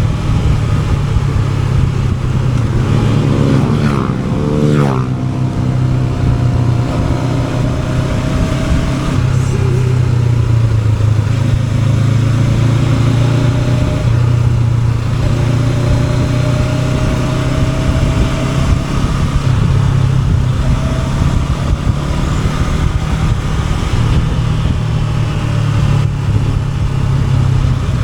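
Honda NX500 motorcycle's parallel-twin engine running on the road. A few seconds in, the pitch climbs as it accelerates, then drops sharply on an upshift. After that it holds a fairly steady note that drifts gently up and down.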